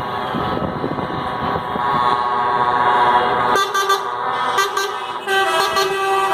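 Truck air horns sounding in long, many-toned chords over the rumble of truck engines. About three and a half seconds in the rumble drops away, leaving the horn tones clearer, and the chord changes pitch a couple of times.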